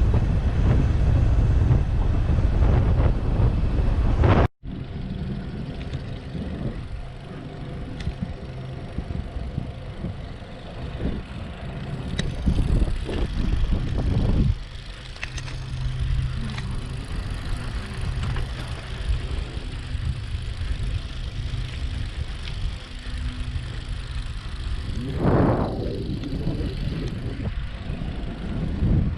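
Ride on a Brompton folding bicycle with steady wind and road noise. The sound cuts off abruptly about four and a half seconds in and resumes quieter, with a louder swell of passing noise near the end.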